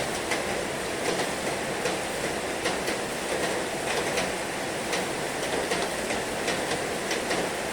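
Heavy rain falling steadily: a dense, even hiss with scattered louder drop ticks.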